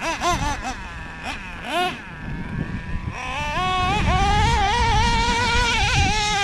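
Two-stroke OS .21 nitro engine of a Traxxas Revo 3.3 RC monster truck being run on the throttle. It gives a few quick revving blips, drops to a low idle, then revs up about three seconds in and holds a high, wavering whine at speed.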